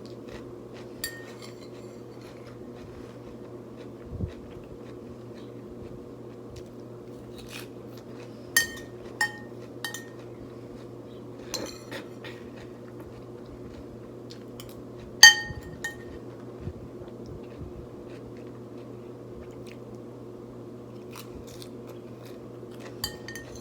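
Cutlery clinking against a bowl during a meal, several sharp ringing clinks at irregular intervals, the loudest a little past the middle, over a steady low hum.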